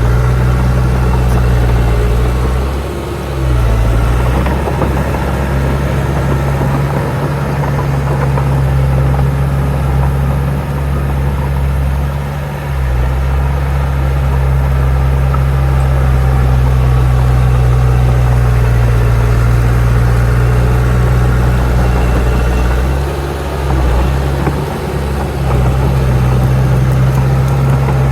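Heavy diesel engine of earthmoving machinery running steadily with a deep, even hum. It dips briefly about three seconds in, again around twelve seconds, and near twenty-four seconds, then picks back up.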